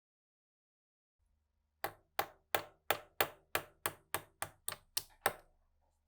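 Hand hammer striking in a quick run of about a dozen sharp, ringing blows, roughly three a second and a little faster toward the end.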